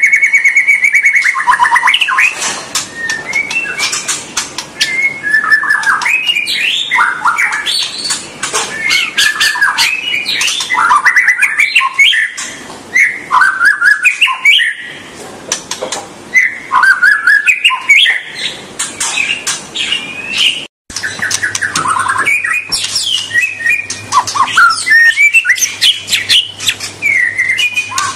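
White-rumped shama (murai batu) singing a long, varied song of clear, shrill whistles that glide up and down, mixed with rapid chattering and clicking notes.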